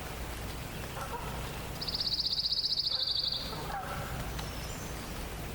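A songbird's rapid, even trill, high-pitched and falling slightly, lasting about a second and a half. Around it, fainter wavering honks of distant Canada geese, over a steady low background rumble.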